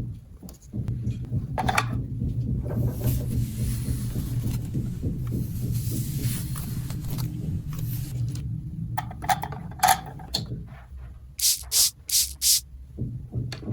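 Plastic toy pieces being handled and rubbed together, with scraping and scattered clicks over a steady low hum, and four sharp rustling scrapes in quick succession near the end.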